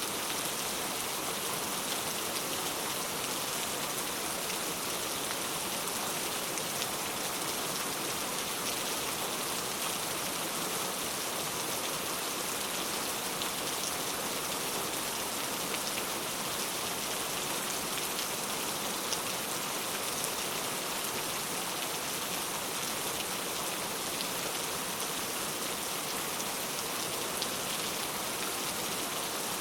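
Steady rain falling, a constant hiss of drops with scattered small patters on a surface.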